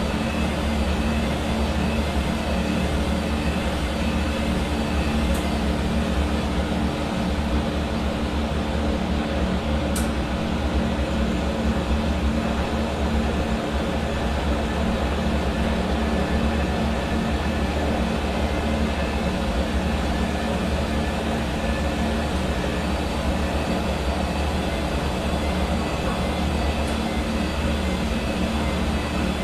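Hair dryer running steadily: a continuous rush of blown air over the hum of its motor, with no change in speed.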